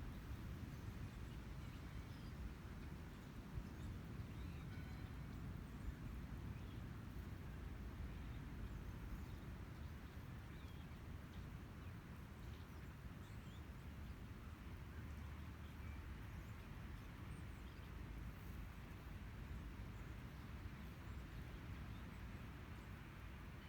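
Outdoor ambience: a steady low rumble with faint, scattered short bird chirps.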